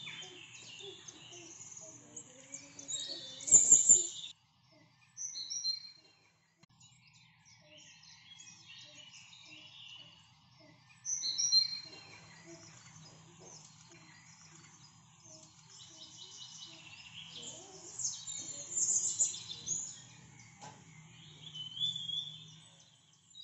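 Small birds chirping and twittering in quick high calls, with a faint low hum underneath. The sound breaks off for a couple of seconds about four seconds in.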